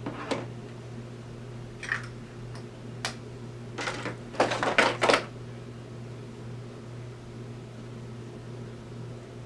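Short clicks and rustles from small objects being handled, most of them bunched about four to five seconds in, over a steady low electrical hum.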